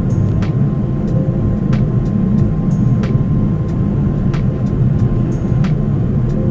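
Steady low rumble of an airliner in flight, with a faint steady high tone and a few light clicks.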